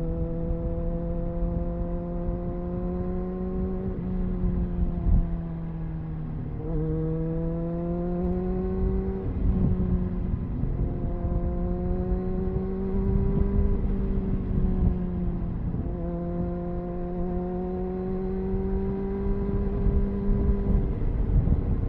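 Triumph Speed Four's 600cc inline-four engine on its stock exhaust, running under steady light throttle while riding. Its pitch creeps slowly upward and then dips sharply about five times, over a low wind rush.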